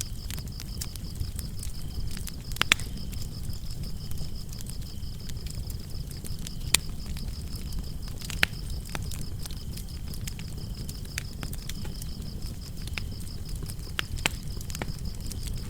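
Fire in a fireplace crackling and popping over a steady low rumble of the flames, with the sharpest pops about 3, 7, 8 and 14 seconds in. Crickets chirp throughout in a steady high pulsing trill.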